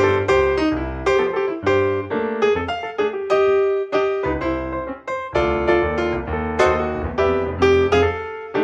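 Piano music: a run of struck notes and chords, each fading after it is played, with a brief pause about five seconds in.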